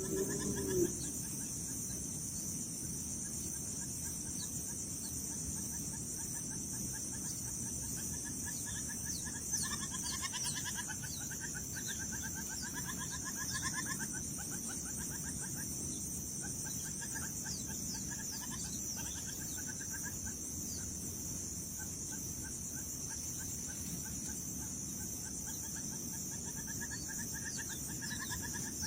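Birds giving repeated short trilled calls over a steady high-pitched insect drone, with a low rumble of wind or handling noise underneath.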